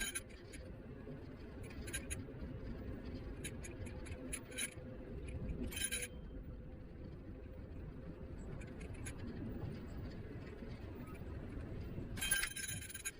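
Niu KQi3 Pro electric scooter riding along: a steady low rumble of wheels and wind, broken by short bursts of metallic clinking rattle, the longest and loudest near the end.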